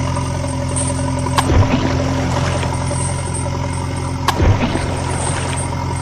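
A steady engine drone, like a tractor or truck engine running, with two sharp clicks about three seconds apart.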